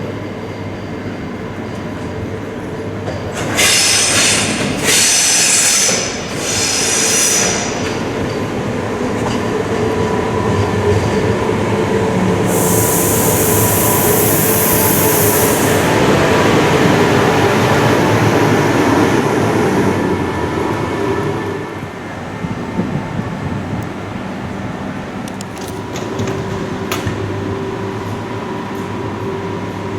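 SBB RABe 503 (ETR 610) tilting electric train moving in the station. Its rumble builds and then eases, with three short high-pitched bursts about four to seven seconds in and a high hiss about thirteen to sixteen seconds in.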